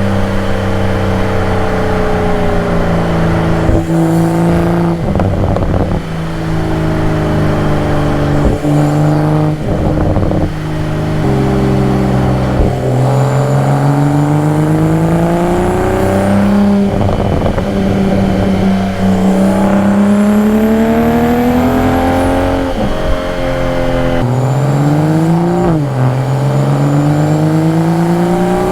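2022 Toyota Supra's engine, exhaust and intake note while driving, the pitch climbing under throttle and dropping at each gear change or lift several times over.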